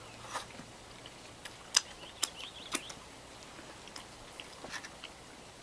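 Someone chewing a mouthful of cooked brook trout, with a few short wet mouth clicks and smacks, the sharpest a little under two seconds in.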